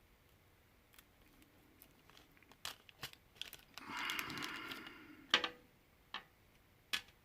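Crinkly plastic being handled, with a rustling stretch about four seconds in, amid scattered sharp clicks and taps; the loudest click comes a little after five seconds.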